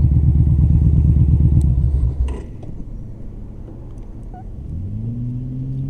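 Motorcycle engine running with a fast, even low pulse, then cutting off abruptly about two seconds in, followed by a click. Near the end another vehicle's engine comes up, rising in pitch and then holding steady.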